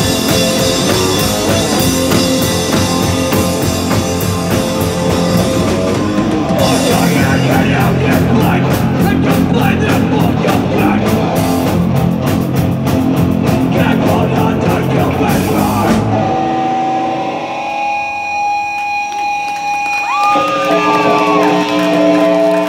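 Live band with distorted guitars and a drum kit playing loud, heavy music, with rapid drum hits in its second half. About sixteen seconds in the music stops abruptly, leaving guitar amps ringing with sustained feedback tones and a brief rising-and-falling squeal.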